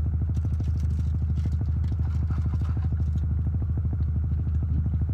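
Car engine idling steadily, heard from inside the cabin, a low hum with a fast even pulse. Light crinkling and clicks of burger wrapper paper sound over it.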